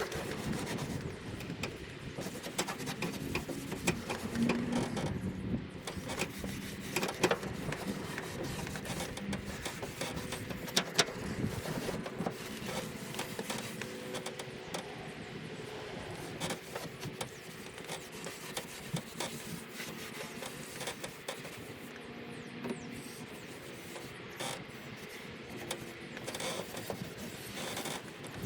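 A cloth rag rubbing wood stain onto a sanded wooden boat compartment door, a continuous scuffing with small knocks and ticks from handling. A low steady hum runs underneath.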